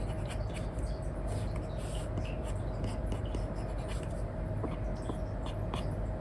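Apple Pencil 2 with an Elecom nib scratching and tapping on an iPad's paper-like screen film in many short colouring strokes, over a steady low hum.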